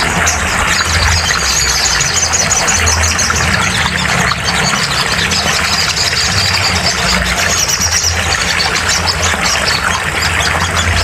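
Recorded song of a little spiderhunter (sogon, sogok ontong): rapid, high-pitched chirping over a loud, steady noisy background with a low hum.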